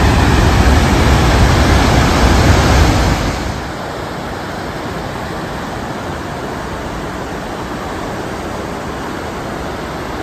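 Goðafoss waterfall rushing, a loud, steady roar of water falling over the edge. It is louder and deeper for the first three and a half seconds, then drops to a steadier, lighter rush.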